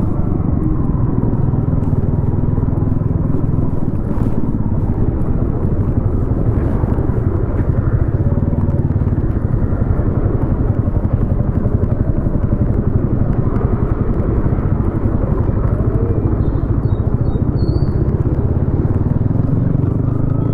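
Yamaha XSR155's single-cylinder four-stroke engine running through a DIY exhaust, heard from the rider's position, with a steady drone.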